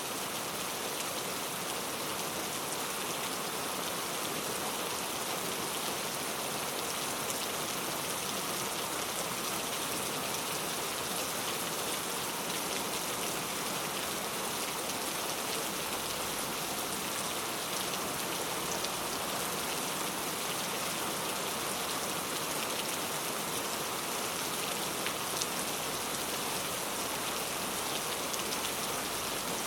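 Heavy rain falling steadily in a dense, even hiss, with a few sharper individual drop ticks here and there.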